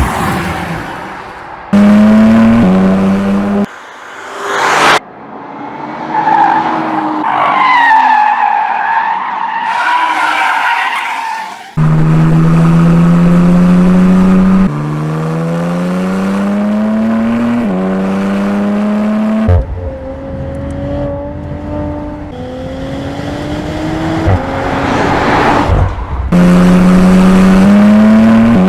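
A high-performance car engine accelerating hard on track in several short runs, its pitch climbing and dropping back at each upshift. Tyres squeal through a corner partway through.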